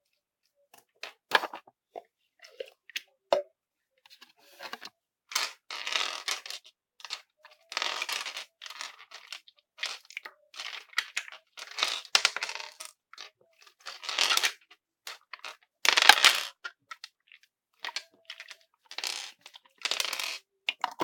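Clear slime being squeezed and pressed by hand: a string of irregular wet squishing and crackling noises, each up to about a second long, roughly one a second.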